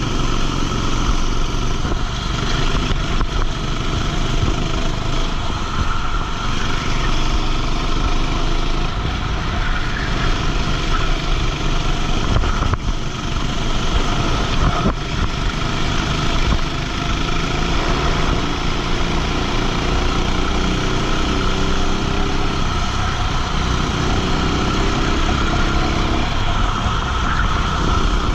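Kart engine running hard through a race lap, its pitch repeatedly rising and falling with the throttle, heard from a camera mounted on the kart.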